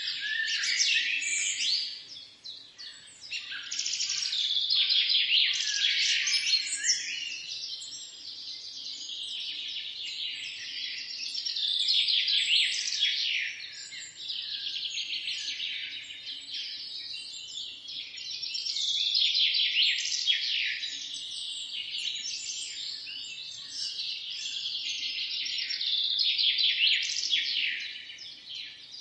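Many small songbirds singing and chirping at once in a dense, high twittering chorus, swelling louder and fading back every several seconds.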